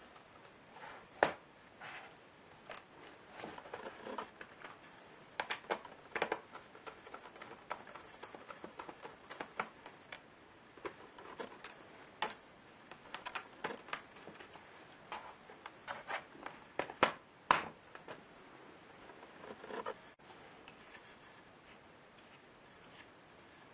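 Irregular clicks, taps and short scrapes of small tools against the hard plastic and small parts of a Lenovo Y570 laptop as it is being taken apart. The sharpest clicks come around one second in and about two thirds of the way through, and the handling dies away near the end.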